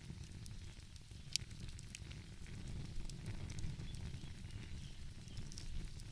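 Wood fire crackling, with scattered sharp pops and one louder snap about a second in, over a steady low rumble.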